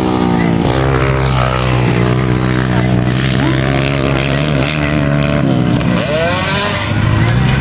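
Several motocross dirt bike engines running together, their pitch dropping early on and rising again as throttles open near the end.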